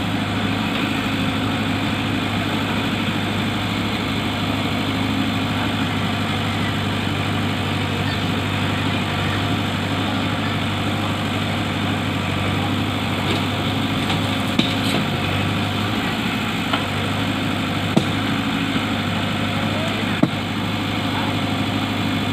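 A heavy vehicle's diesel engine idling steadily, with a few brief sharp clicks in the second half.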